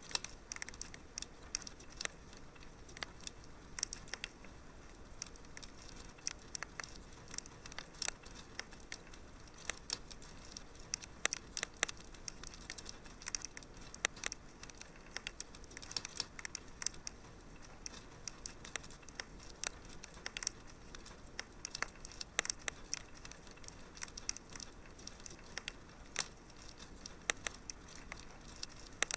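Wood fire crackling, with irregular sharp pops over a low steady hiss.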